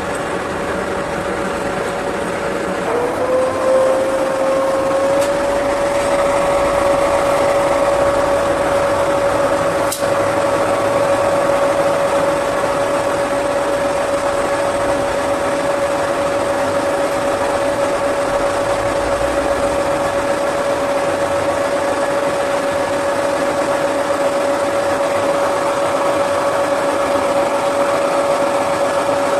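Metal lathe running with a steady whine over a machine-shop hum. About three seconds in the pitch dips briefly and climbs back, as if under momentary load, then holds steady; a single sharp click comes about ten seconds in.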